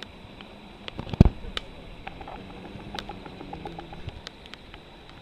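Wood campfire crackling, with sharp pops scattered irregularly through it and one louder thump about a second in.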